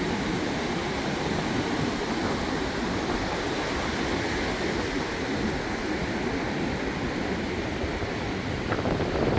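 Small waves breaking and washing up a sandy beach, a steady, even rush of surf.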